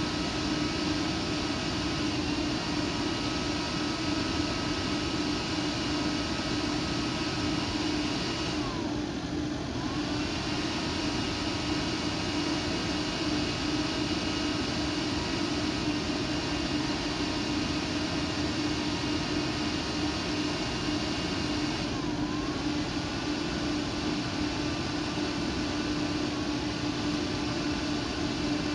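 PC air-cooling fan running fast: a steady whir with a strong hum and a fainter whine above it. The whine dips briefly in pitch and recovers twice, about nine seconds in and again about twenty-two seconds in.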